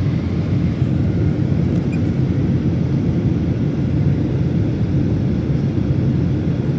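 Steady low rumble of an airplane, an even noise with no rise or fall in pitch.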